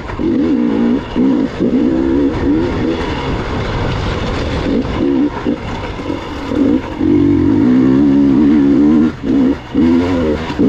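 Gas Gas EX 300 two-stroke enduro bike engine running under changing throttle as it is ridden over rocky ground, its pitch rising and falling. Near the end the throttle is held steady for a couple of seconds, then shut off briefly twice.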